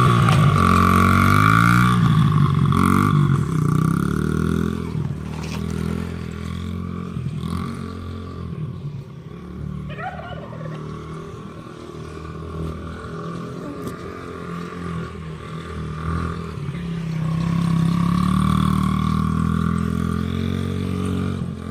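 Dirt bike engine running and revving as it rides laps, its pitch rising and falling. It is loud at first, fades away in the middle and comes back louder near the end.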